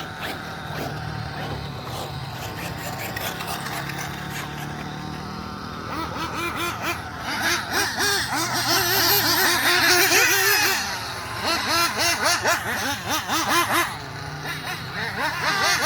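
Freshly rebuilt S-Power S7 nitro engine running and being revved, its pitch rising and falling quickly over and over. It is loudest a little past the middle, then eases for a few seconds before picking up again near the end.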